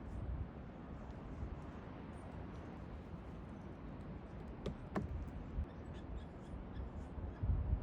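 Faint steady outdoor background noise with low rumbles near the start and end, and a brief two-note bird call about five seconds in.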